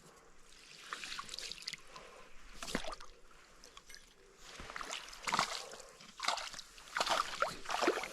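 Water splashing and sloshing in irregular short bursts, stronger in the second half.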